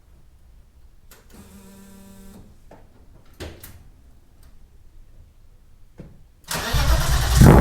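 A few clicks and a brief electric hum, then about six and a half seconds in the BMW M50B25 straight-six cranks and fires, running loud through stainless headers and a 3-inch stainless exhaust with a silencer taken out.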